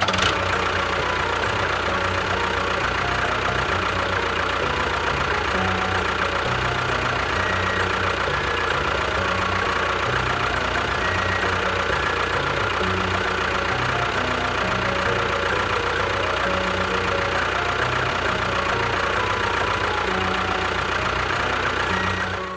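A steady, unbroken engine sound, like a tractor or bulldozer engine running, that starts and stops abruptly, with faint short musical tones over it.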